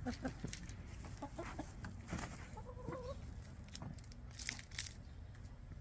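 Backyard hens clucking, with one short call about halfway through among scattered light clicks.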